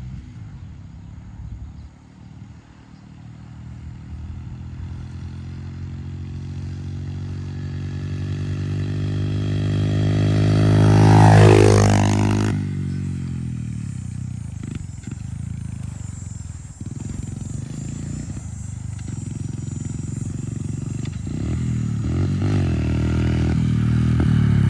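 Pit bike engine ridden across grass at part throttle in second gear. It grows louder as it approaches, passes close by about eleven seconds in with a drop in pitch, fades, then comes back louder near the end.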